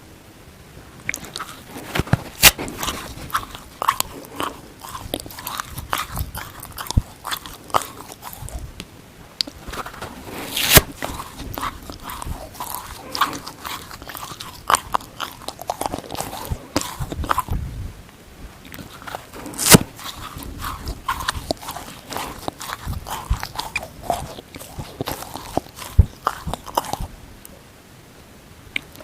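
A dry watermelon sponge being bitten and chewed close to the microphone: dense crunching broken by a few loud sharp snaps, with short pauses between bouts.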